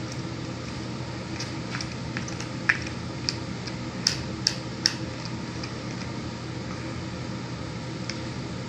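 Small wet clicks and squelches of hands working sticky slime, a handful of them bunched together about three to five seconds in, over a steady hum like a fan or air conditioner.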